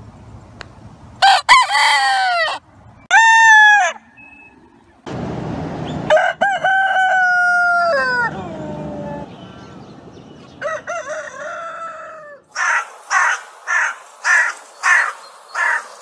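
Roosters crowing, four separate crows, one of them long with a falling end. Near the end comes a run of about seven short, harsh calls, roughly half a second apart.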